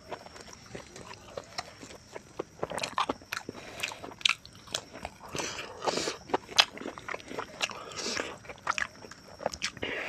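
A person chewing a mouthful of rice and pork curry with open-mouthed smacking, many short clicks that grow busier and louder after the first couple of seconds.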